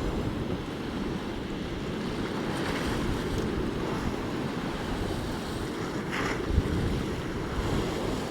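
Gale-force wind buffeting the microphone over the steady rush of storm surf breaking on the shore. A hissing swell of breaking water comes about six seconds in.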